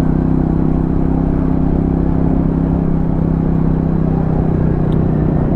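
Motorcycle engine running steadily at a nearly constant pitch while riding, heavily loaded with a pillion and luggage, with road and wind rumble underneath.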